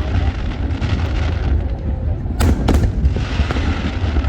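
Fireworks going off: two sharp bangs a little past halfway, a few fainter cracks after them, and a hiss of crackle between, over a steady low rumble.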